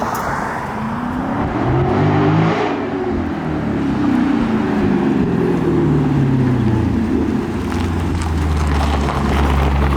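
Dodge Scat Pack Widebody's 6.4-litre HEMI V8 with a new aftermarket exhaust, accelerating hard. The pitch climbs, drops as it shifts up, climbs again, falls away as the driver lets off, then settles into a steady low drone near the end.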